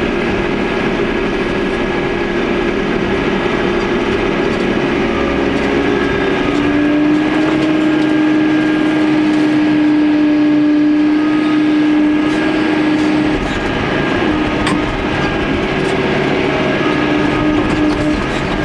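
Machine engine running, heard from inside the operator's cab, with a steady whine that drops in pitch about six seconds in and comes and goes after about thirteen seconds.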